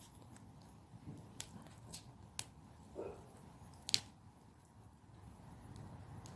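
Wood campfire crackling, with irregular sharp pops over a low steady rumble of the flames; the loudest pop comes about four seconds in.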